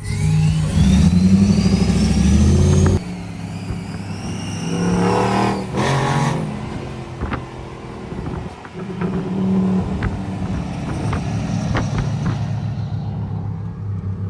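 Truck engine revving hard for about three seconds, then dropping off suddenly and carrying on with lighter revs and running.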